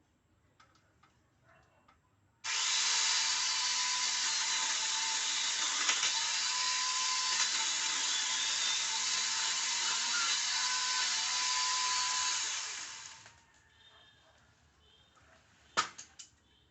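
Small electric chainsaw switching on abruptly and running steadily with a steady whine for about ten seconds as it saws through wood, then winding down. A sharp crack comes near the end.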